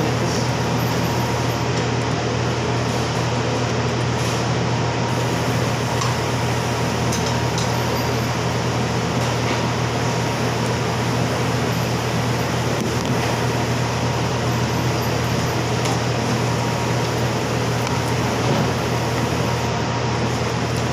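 Steady mechanical hum and hiss with a strong low drone and a faint, steady high whine, like a running air-conditioning unit or fan.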